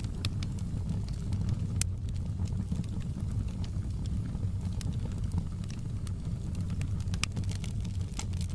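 Campfire burning with a steady low rumble of flames and irregular sharp crackles and pops from the burning wood, a few louder snaps about two seconds in and near the end.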